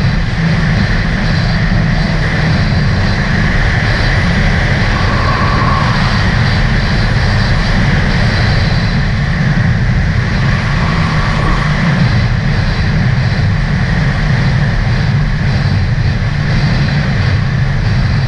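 2018 Sea-Doo RXT-X 300 personal watercraft running steadily at speed, its supercharged three-cylinder Rotax engine droning under the rush of water and wind.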